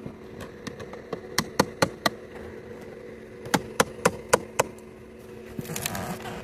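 Two quick runs of sharp clicks or taps, four and then five at about four a second, from hand tools on the metal frame of a recliner being taken apart for scrap.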